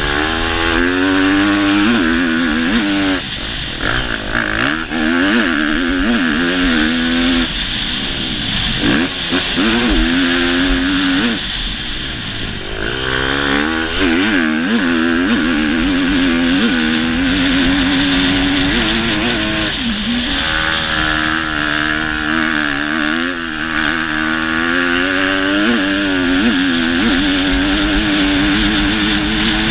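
Motocross motorcycle engine revving hard and easing off again and again as the throttle is worked, its pitch swinging up and down. It drops away briefly a few times, about three, seven, twelve and twenty seconds in, before picking up again.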